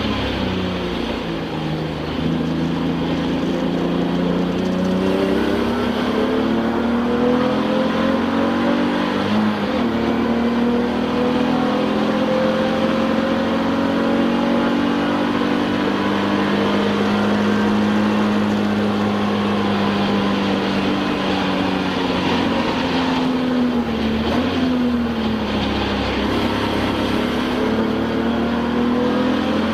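Touring-car race engine heard from inside the car at race pace, its note climbing and falling with the throttle and gear changes, with several quick dips in pitch from shifts and braking.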